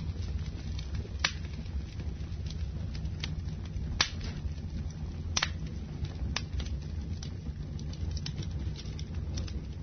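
Wood fire burning in a fireplace: a steady low rumble with scattered crackles and sharper pops, the loudest about a second, four seconds and five and a half seconds in.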